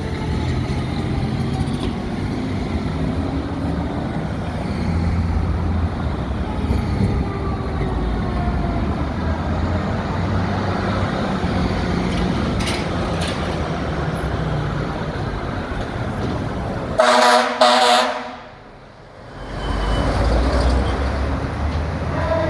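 Fire engine (2017 Spartan Metrostar pumper) responding with its siren wailing up and down over the engine and road noise. Near the end come two short, loud air horn blasts, after which the sound briefly dips.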